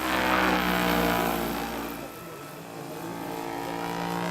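Electric scale-model Chinook helicopter flying: a steady whine from its motor and gearing, with the whir of its tandem rotors. It is loudest in the first two seconds, then eases off.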